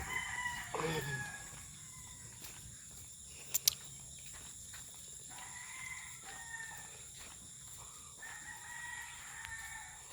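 Roosters crowing faintly, several drawn-out crows one after another: near the start, about six seconds in, and again toward the end. A sharp double click about three and a half seconds in.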